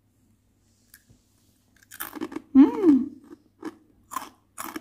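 A child biting and chewing karak, crunchy fried dried-rice crackers: after a quiet start, a crunch about two seconds in, then short crunches about twice a second. In the middle a brief hummed "mm" of the voice, rising then falling in pitch, is the loudest sound.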